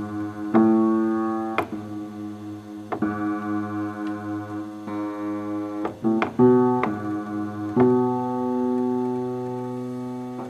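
Electric keyboard playing a slow run of chords, each struck and held, a new chord every second or two.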